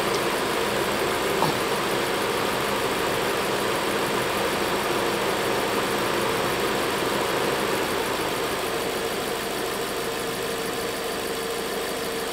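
Volkswagen Fox engine idling steadily and smoothly on new spark plugs after a full tune-up, with one light click about a second and a half in.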